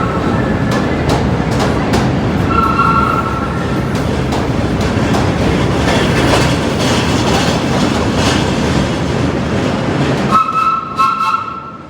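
Vintage R1/R9 New York City subway train running on the rails with a loud, continuous rumble and clatter. A short high, steady tone sounds about three seconds in and again near the end, and the rumble falls away near the end.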